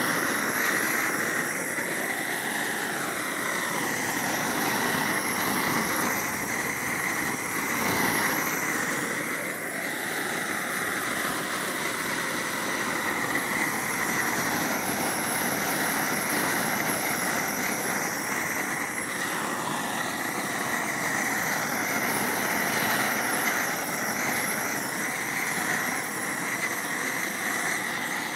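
Homemade propane gas burner running with a steady, even rush of flame, heating torch-on bitumen roofing felt to fuse it down.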